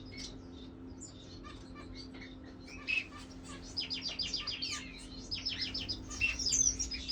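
Small cage birds, finches, chirping: scattered high chirps, then quick runs of rapid high notes from about four seconds in, loudest near the end.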